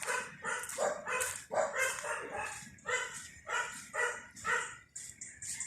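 Dogs barking in a quick repeated run, about two to three barks a second, stopping about five seconds in.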